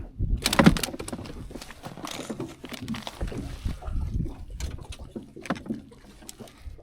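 Handling noise on a small fishing boat: a loud knock about half a second in, then scattered bumps, clicks and water sloshing against the hull.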